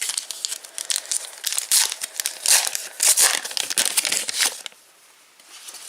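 Foil wrapper of a Panini Adrenalyn XL trading-card pack being torn open and crinkled, a dense crackling rustle that is loudest in the middle and stops near the end.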